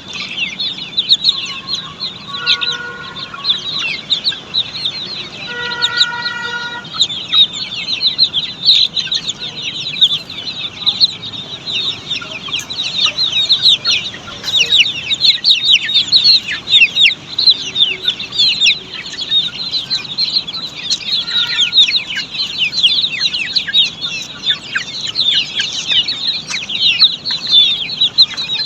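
A brood of Australorp chicks peeping continuously: many short, high, falling cheeps overlapping. A few brief steadier-pitched calls stand out about two, six and twenty-one seconds in.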